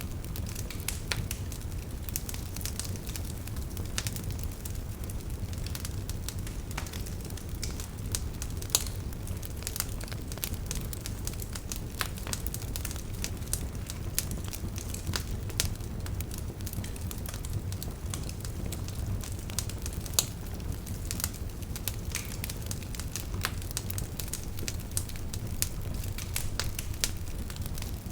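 Campfire burning, crackling and popping in many sharp irregular clicks over a steady low rumble of flame.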